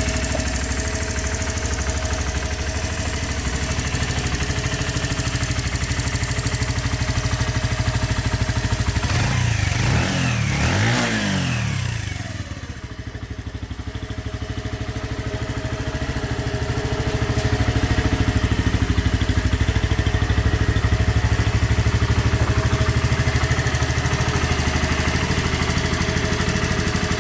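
Bullit Bluroc 125 motorcycle's 125cc single-cylinder engine idling, revved twice about ten seconds in, then settling back to a steady idle.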